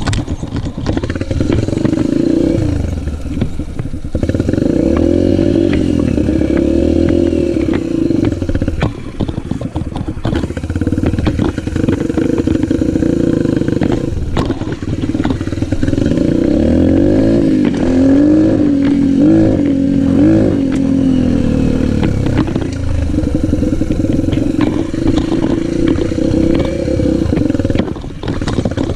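Yamaha motocross motorcycle engine running throughout, its revs rising and falling again and again, with scattered clicks and clatter.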